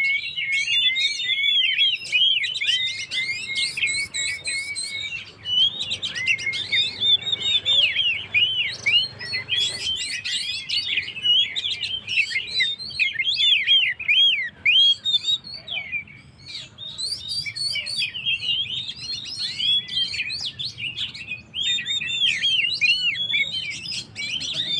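Oriental magpie-robin (kacer) singing vigorously in a continuous, rapid stream of varied high chirps and whistles, with a short lull about two-thirds of the way through.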